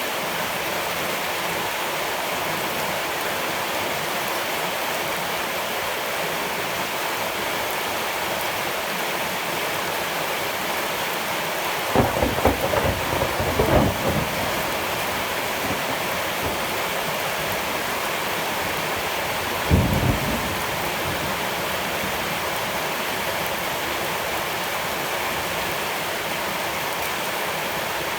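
Steady, even hiss of heavy rain. About twelve seconds in there is a two-second cluster of louder low thumps, and a single brief thump comes near twenty seconds.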